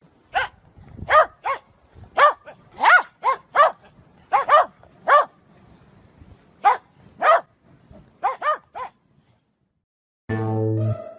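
A dog barking in short, high yips, about fifteen in irregular clusters, stopping about nine seconds in. Music starts near the end.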